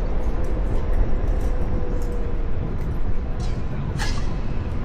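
Steady low rumble of wind and city traffic around a moving Onewheel rider, with a faint steady whine that fades out about halfway through and a single sharp click near the end.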